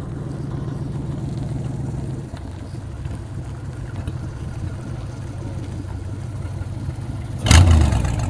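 A car engine idling with a steady, even rumble, then a sudden loud burst about seven and a half seconds in that is the loudest moment.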